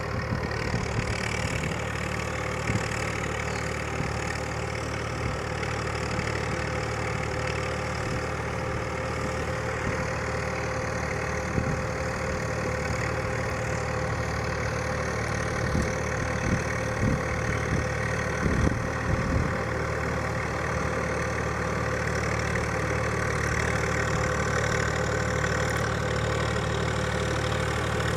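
An engine idling steadily, with a few short knocks in the middle.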